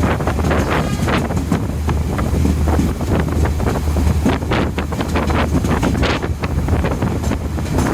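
Diesel train running at speed: a steady low drone under the rumble and clatter of wheels on rail, with wind buffeting the microphone.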